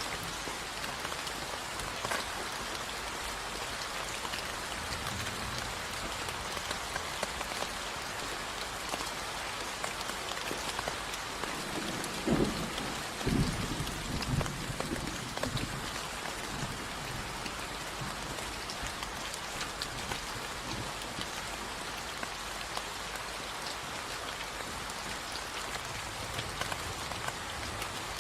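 Steady rain falling and pattering on surfaces, with a brief low rumble of thunder in several pulses about twelve seconds in.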